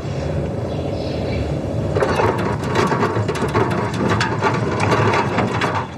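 Mechanical rattling: a steady rumble, then from about two seconds in a dense, rapid clatter of sharp clicks.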